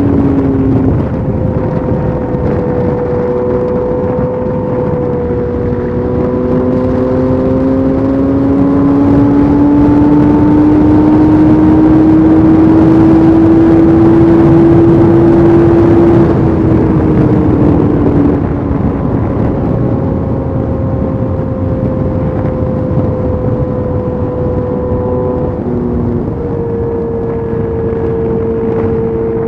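Yamaha FZ8's inline-four engine through a LeoVince exhaust with the dB killer removed, running under way: a steady engine note that climbs slowly and grows louder to about halfway, drops back a little past halfway and then holds steady.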